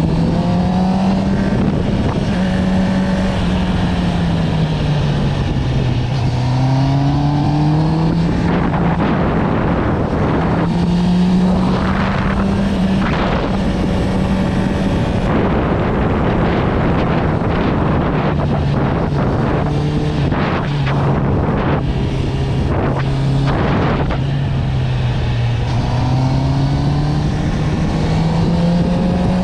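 Honda CB650R's inline-four engine through an Akrapovic exhaust, running under way, its note rising and falling smoothly as the throttle is rolled on and off. Rushing air noise surges through the middle stretch.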